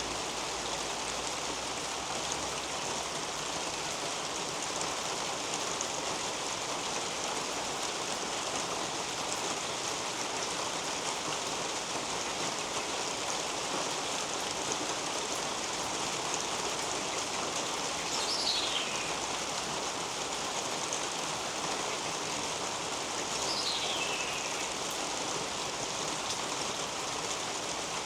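Steady rain falling on leaves, soil and a roof overhead, an even hiss. Past the middle, twice about five seconds apart, a bird gives a short whistle falling in pitch.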